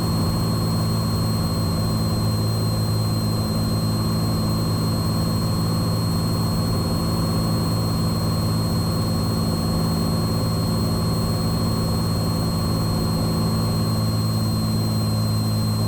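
Cessna 182's six-cylinder piston engine and propeller droning steadily at constant power in flight, with thin steady high-pitched whines above the drone.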